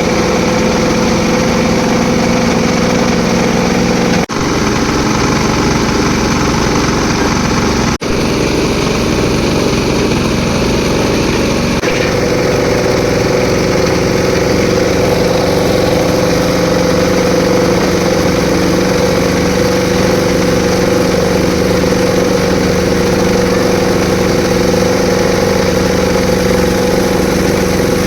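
Concrete mixer's engine running steadily, with two brief breaks about four and eight seconds in and its note shifting slightly about twelve seconds in.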